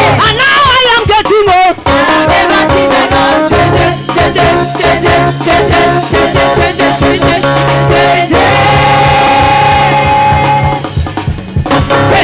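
Live worship band music with a drum kit keeping a steady beat and a wavering sung line in the first two seconds, moving into long held chords that thin out near the end.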